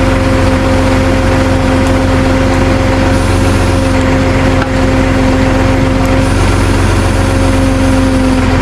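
Tow truck engine running steadily at an even speed, with a constant whine over the drone.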